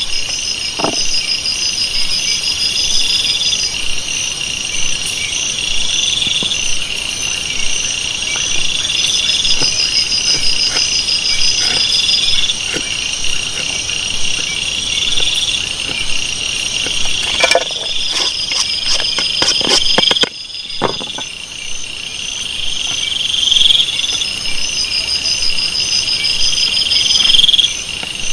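Tropical forest insect chorus: a steady high shrill, a louder call that swells and stops about every three seconds, and fast high trills over it. A few sharp clicks or knocks come about two-thirds of the way in.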